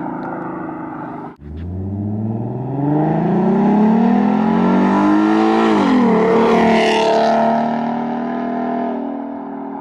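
Ford Mustang 3.7 V6 with a Roush axle-back exhaust and BBK shorty headers accelerating hard past, its exhaust note climbing steadily in pitch after a brief break about a second and a half in. The pitch dips and climbs again around six seconds in, the sound is loudest as the car passes about seven seconds in, then it eases off.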